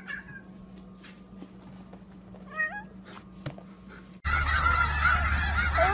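A domestic cat gives one short, wavering meow about two and a half seconds in, with a few faint clicks around it. About four seconds in the sound cuts to a flock of geese honking over a low rumble.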